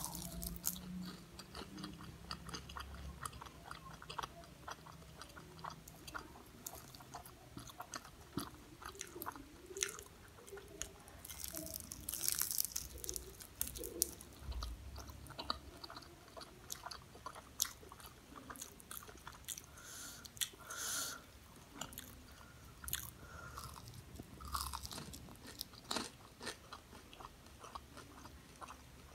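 Close-up eating of crispy fried samosas: repeated bites into the pastry crust and chewing, with many short crunches scattered throughout.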